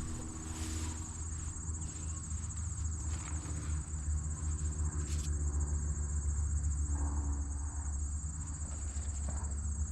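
Insects trilling steadily at a high pitch, over a low steady hum.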